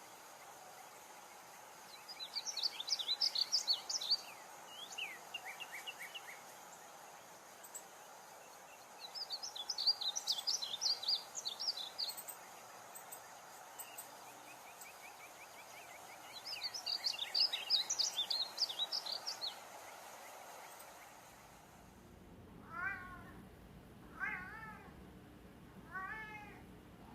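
Songbird singing in three bouts of rapid, high twittering notes, each a few seconds long. After a change in the background, four short, lower calls follow about a second and a half apart.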